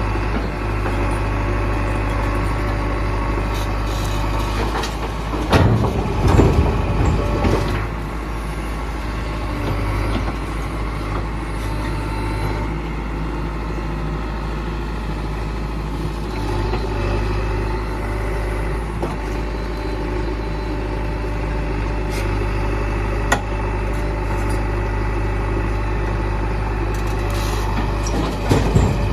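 Heavy diesel engine of a backhoe loader or tractor running steadily, growing louder and rougher for about two seconds near six seconds in and again near the end, with a single sharp knock about twenty-three seconds in.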